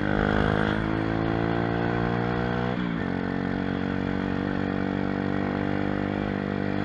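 Mini moto (pit bike) single-cylinder engine pulling under throttle, its pitch climbing steadily for nearly three seconds, then dropping sharply and running on at a steady pitch.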